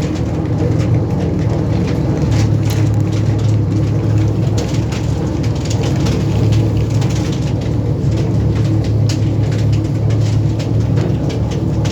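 Boat engine running steadily with a low, even hum, with many small clicks scattered over it.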